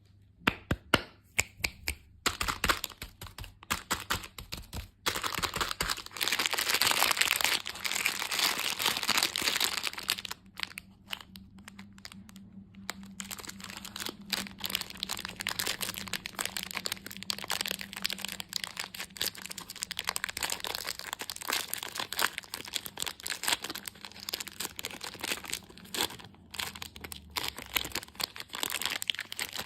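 Close-miked crackling and crinkling of candy and its wrappers. It starts as separate sharp clicks, turns into a dense, loud crackle from about six seconds in, eases briefly, then goes on as a steady crackle.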